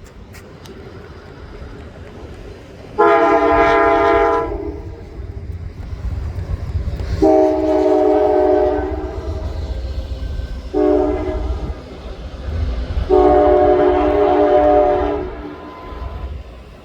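Locomotive horn sounding the grade-crossing signal: two long blasts, a short one, then a final long one, each a multi-note chord. A steady low rumble runs beneath.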